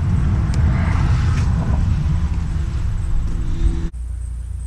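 Case 580C backhoe's Case 207 four-cylinder diesel engine running steadily. The sound breaks off abruptly near the end, leaving a quieter hum.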